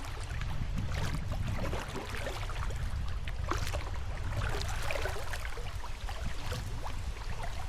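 Water splashing and gurgling around a kayak paddled upstream through shallow river riffles, with a steady low rumble underneath.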